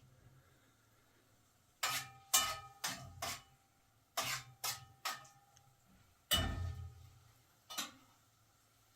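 A run of sharp clinks, each with a short ring: four in quick succession about two seconds in, three more about four seconds in, then a louder one with a low thud near the middle and a last one near the end.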